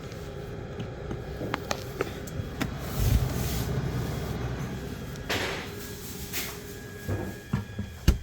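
Handling noises: scattered sharp clicks and knocks, a low thud about three seconds in, a short hiss a couple of seconds later, and a sharp knock near the end.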